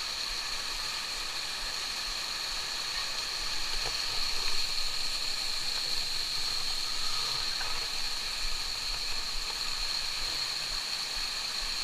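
Steady rushing of flowing water from a stream or waterfall, with a constant high hiss over it.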